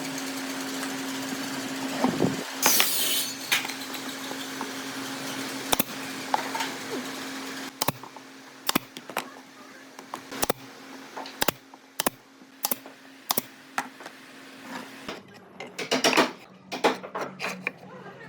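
A small electric motor hums steadily and stops about fifteen seconds in, with a loud scraping crack near the start and a string of sharp wooden taps and knocks that come more often in the second half.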